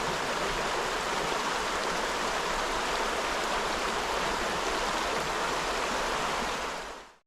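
Steady rush of flowing water, fading out just before the end.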